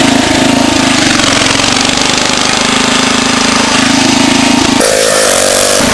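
Small engine of a souped-up lawn tractor running steadily and loudly, close by. Its note changes abruptly near the end.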